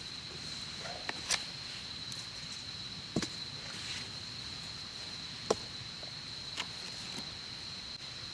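A handful of sharp, scattered wooden snaps and clicks over a steady high-pitched insect drone.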